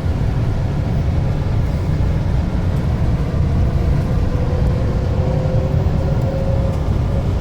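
Cabin of the SFO AirTrain, a rubber-tyred automated people mover, running along its guideway: a steady low rumble, with a faint motor whine that comes in about halfway through and rises slightly in pitch.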